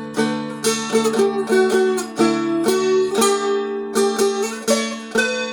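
Seagull Merlin strum stick (a small dulcimer) being played: a plucked melody on the top string over steadily ringing drone strings, with fresh notes about twice a second.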